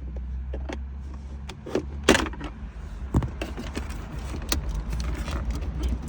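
Plastic clicks and rattles from a car's center console cup holder being handled, with a sharp knock about two seconds in, over a steady low rumble.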